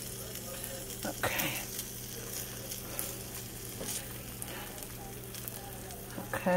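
Quesadilla frying in a skillet: a steady sizzle, with a few light taps and scrapes as a plastic slotted spatula moves the steak on the tortilla.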